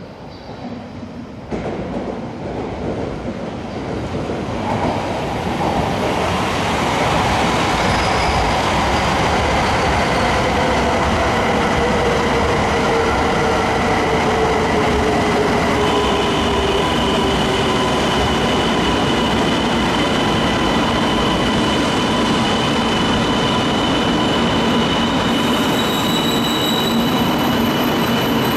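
Joetsu Shinkansen bullet train running through the station. Its noise builds over the first several seconds, then holds steady and loud, with a tone that slowly falls and high steady whines joining near the end.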